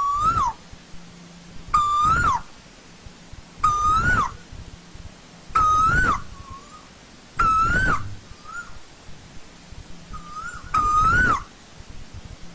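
Asian koel calling: six loud calls about two seconds apart, each a short note that holds, rises and then drops sharply, with a few faint short notes between them and a longer pause before the last call.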